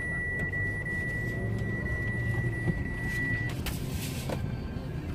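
Car engine idling, heard from inside the cabin, with a steady high tone that stops about three and a half seconds in, followed by a couple of short knocks.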